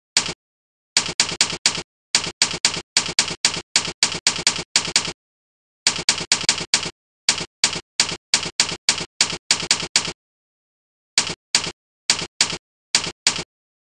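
Typewriter-style key-click sound effects played by the Jingle Keyboard program, one short click for each key pressed, in irregular runs of typing broken by short pauses.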